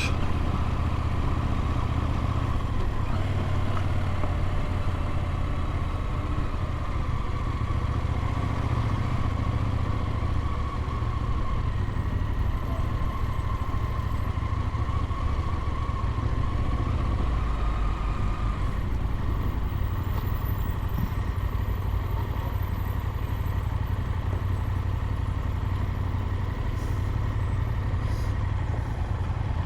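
Motorcycle engine running at a steady cruise while riding.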